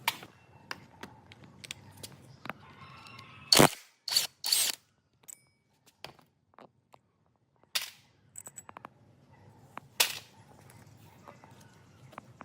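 Metal tools striking and clanking against metal parts: a few loud, sharp knocks, some with a brief metallic ring, scattered with lighter clicks and silent gaps.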